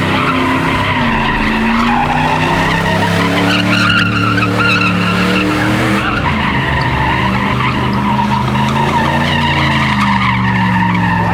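High-revving car engine with its tyres screeching continuously as the car spins its wheels and slides. The engine note sags briefly about six seconds in, then climbs again.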